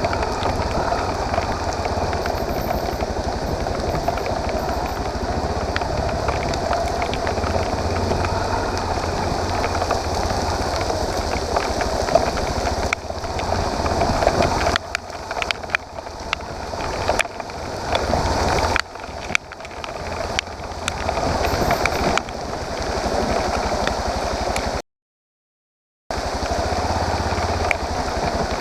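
Motorcycle engine running steadily under a constant rushing noise. In the second half the sound dips and surges irregularly, and near the end it cuts out completely for about a second.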